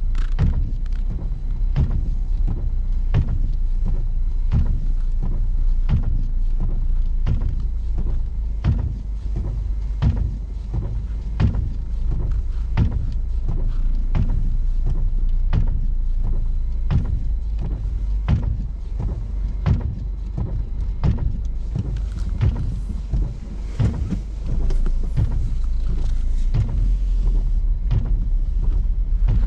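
A car driving at night in snow: a steady low road and engine rumble with frequent irregular knocks and clicks.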